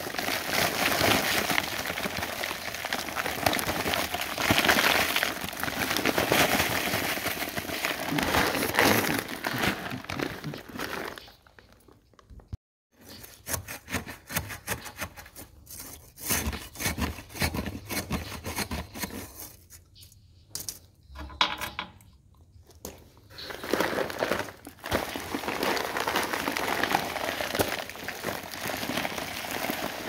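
Dry concrete mix pouring out of a paper sack into a post hole, a steady hiss of falling powder and grit with the bag crinkling. About eleven seconds in it stops, followed by scattered scrapes and knocks of a metal bar working the wet concrete among the gravel; the pouring starts again near the end.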